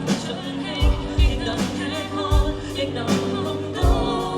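A live band playing a song with a singer: deep kick-drum thumps and cymbal or snare hits every second or so under held chords and a wavering vocal line.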